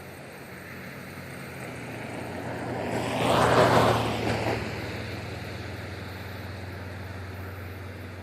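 A vehicle passing by, swelling to a peak about three and a half seconds in and then fading, over a steady low engine drone.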